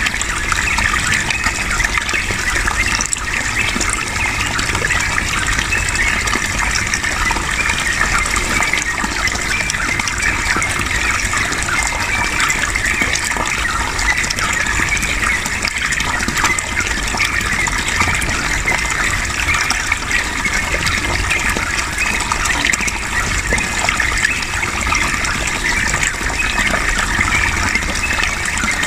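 Running water, a steady continuous gushing flow.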